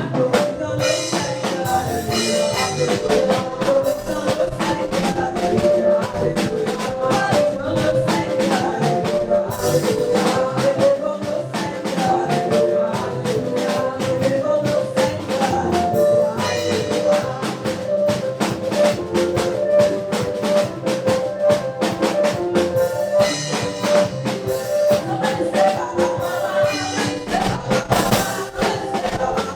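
Live gospel praise music: a drum kit keeping a steady, busy beat under a choir singing.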